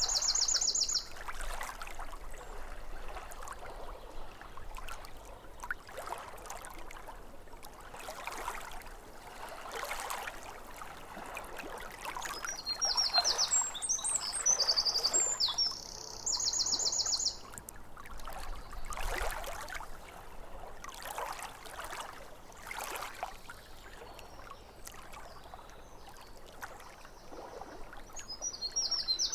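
Small waves lapping at a lake shore in soft, uneven washes, with a songbird singing high, rapid trills near the start, for several seconds about halfway through, and again at the very end.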